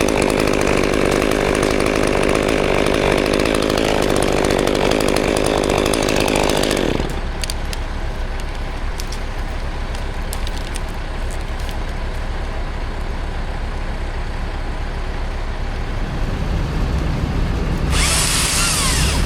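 A chainsaw cutting through wood, which stops about seven seconds in. An engine keeps running low underneath, picks up again near the end, and a loud hissing high sound starts shortly before the end.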